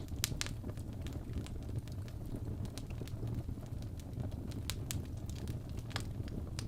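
A wood fire crackling in a fireplace: irregular sharp pops and snaps over a steady low rumble.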